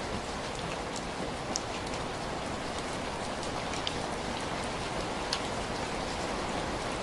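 Steady rain, with a few scattered sharp ticks over it.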